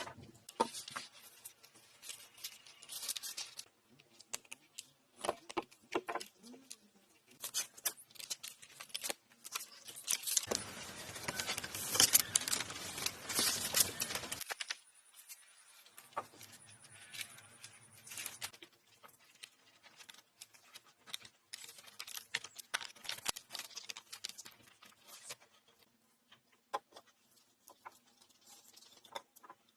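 Irregular clicks, knocks and rustling from hands-on shelter-building work with wood and materials. A denser, louder stretch of rustling or scraping comes about ten to fourteen seconds in.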